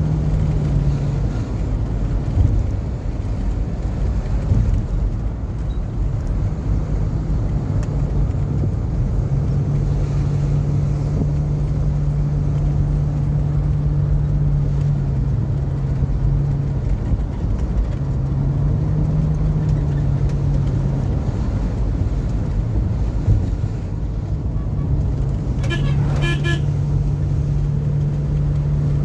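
Vehicle engine running steadily while driving, its drone shifting in pitch now and then, with road rumble. A brief horn toot sounds near the end.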